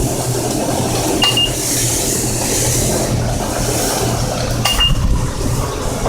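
Self-serve car wash pressure wand spraying water over a steady pump hum, the spray hiss rising in the middle. Two short high beeps, one about a second and a half in and one near the end.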